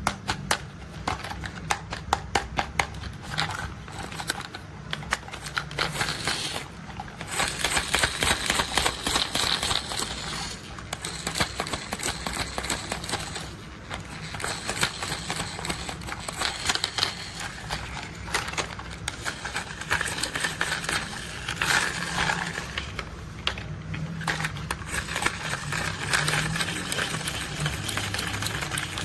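Rapid, dense clicking and rattling of plastic toy construction vehicles being handled, many small clicks a second with a low rumble underneath.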